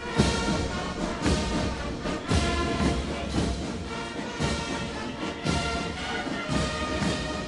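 Military brass band playing a march, with a heavy drum beat about once a second.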